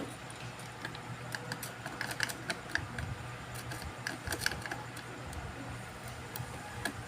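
Light, irregular clicks and taps of small tools and parts being handled at an electronics repair bench, over a steady low hum.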